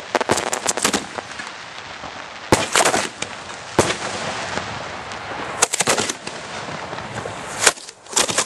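Fireworks going off close at hand: clusters of rapid sharp cracks and pops, several times over, with a steady hiss between them.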